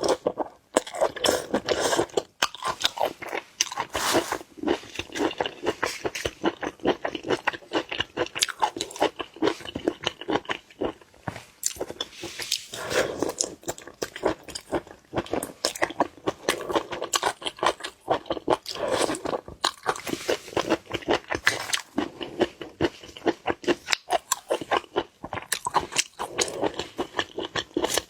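Close-miked eating of seafood: continuous crunching, biting and chewing in quick, irregular clicks.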